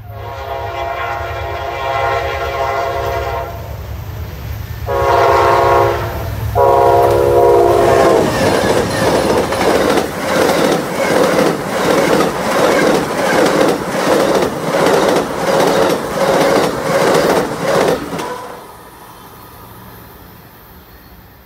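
Amtrak train hauled by three P42 diesel locomotives sounding its horn in three blasts, the first a long one, as it nears the crossing. It then passes at speed, the passenger cars' wheels clattering in a fast, even rhythm over the rail joints for about ten seconds. The sound drops off sharply once the train is past.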